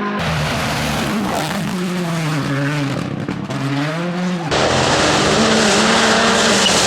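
Rally cars driven hard on a stage. First an engine revs up and drops back several times as it shifts gears. About four and a half seconds in, a sudden change brings a louder car holding steady high revs under a loud rushing noise.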